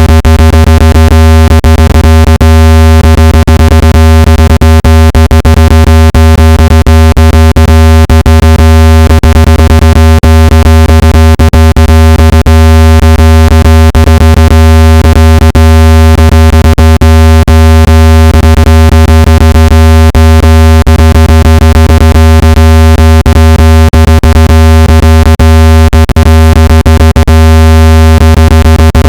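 Loud, steady, low-pitched synthetic buzzing tone with many overtones and a rapid crackle of clicks, played to vibrate water and dust out of a phone speaker.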